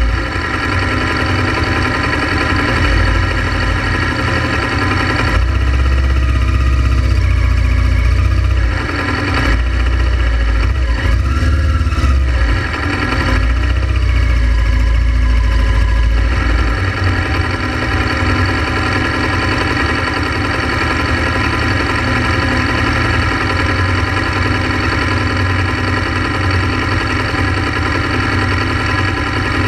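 Honda Transalp XL700V motorcycle's V-twin engine running steadily, with a heavier low rumble from about five to seventeen seconds in.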